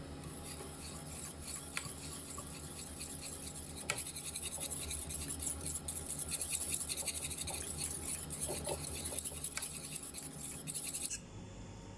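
A spoon or whisk stirring thickening cream filling in a pan over a low flame, a fast, steady scraping against the pan that stops abruptly near the end.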